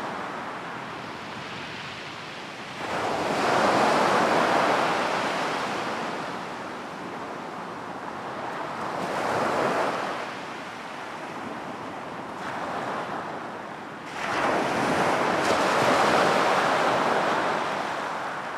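Sea waves breaking on a beach: steady rushing surf that swells and ebbs, with a big wave crashing about three seconds in, a smaller one around the middle, and another big one about three-quarters of the way through.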